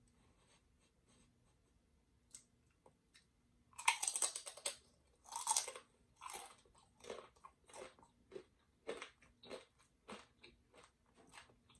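Tortilla chip dipped in queso bitten and chewed close to the microphone. It is quiet at first; about four seconds in come a few loud, crisp crunches, then steady crunchy chewing, a little more than one chew a second.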